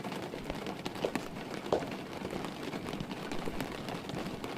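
Heavy rain pouring steadily, a continuous hiss with a patter of individual drops. Two slightly louder soft knocks come about a second in and shortly after.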